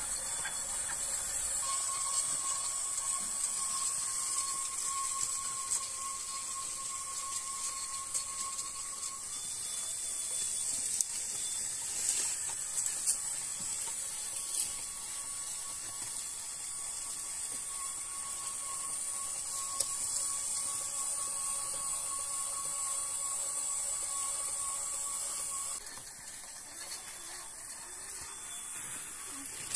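Electric motor and gear drive of a small homemade electric tractor running steadily, a high whine with a thin steady tone and a few clicks. It gets quieter near the end.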